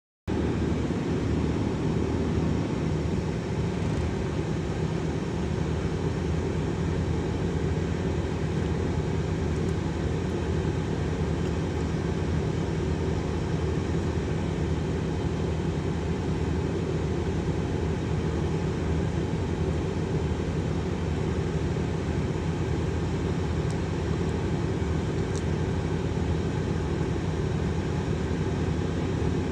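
Heavy engine running steadily in a low, even rumble, with no change in speed.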